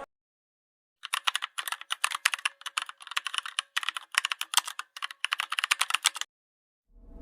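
Rapid clicking of computer keyboard typing, starting about a second in and stopping about a second before the end.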